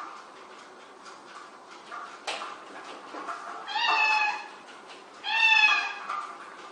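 A cat meowing twice, two loud calls about a second and a half apart, each falling slightly in pitch. A few faint knocks come before them.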